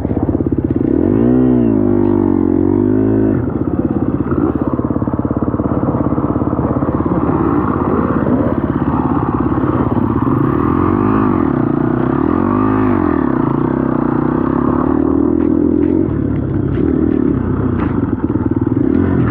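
Four-stroke dirt bike engine, a KTM 250 SX-F, running under way off-road. Its revs climb and drop back several times as the throttle is worked, with a few knocks near the end.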